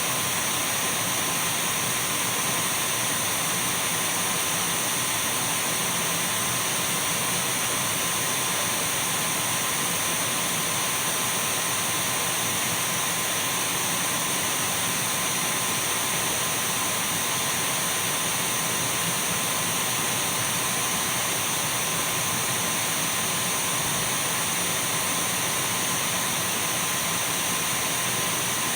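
Dyson V12 cordless stick vacuum cleaner running steadily: an even whirring rush with a thin high whine and a fainter steady tone in the middle range, unchanging throughout.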